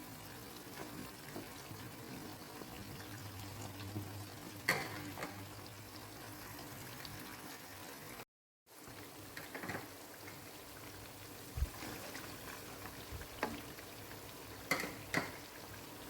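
Chicken frying in oil: a faint, steady sizzle with a few sharp clicks scattered through it, cut by a brief dropout about halfway.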